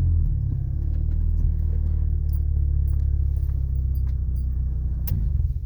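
Ford Ranger pickup's engine running with a steady low rumble and faint ticks, then shut off near the end, dying away quickly.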